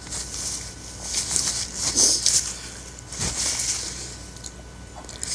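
Close-miked mouth sounds of chewing and lip smacking, with wet clicks coming in short spells about once a second.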